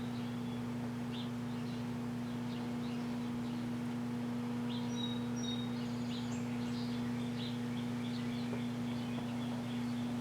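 Microwave oven running with a steady electrical hum, with birds chirping now and then in the background.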